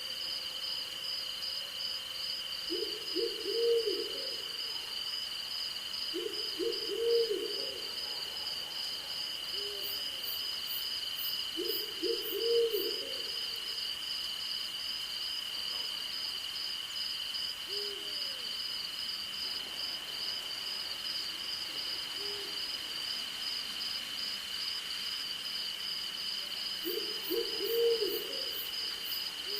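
An owl hooting in four groups of three or four low notes, with fainter single hoots in between, over a steady high insect drone and a fast-pulsing cricket trill.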